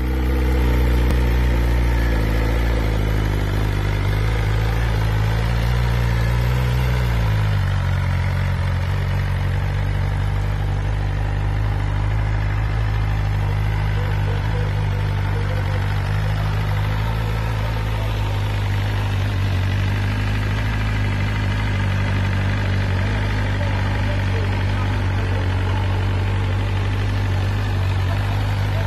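BMW S1000RR inline-four engine idling, held at a raised, slightly wavering idle for about the first seven seconds, then dropping to a steady lower idle for the rest.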